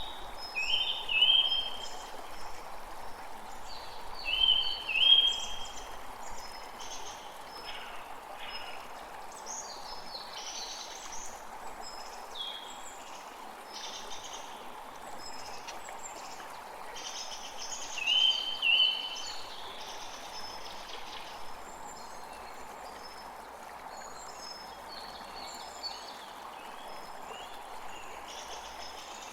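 Creek water flowing steadily, with several songbirds chirping and calling over it. The loudest calls are quick pairs of short notes, about a second in, around five seconds in, and again near eighteen seconds.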